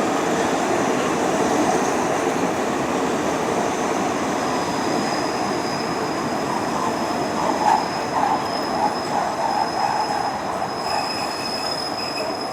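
Train running, a steady noisy rumble, with a thin high whine coming in about four seconds in.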